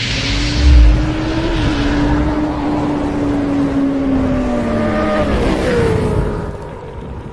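Motorcycle engine sound effect, running loud over a rushing, fiery whoosh, with a heavy low boom about a second in. The engine pitch drops and changes around five seconds in, and the sound fades near the end.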